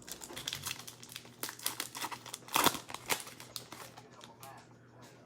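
Crinkling and tearing of an NFL Mosaic trading-card pack wrapper as it is ripped open: a run of irregular crackles, loudest about two and a half to three seconds in, dying away after about four seconds.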